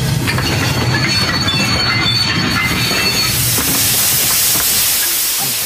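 Train running along the rails with a continuous rumble of wheels. A steady high-pitched wheel squeal lasts about three seconds, then gives way to a hiss.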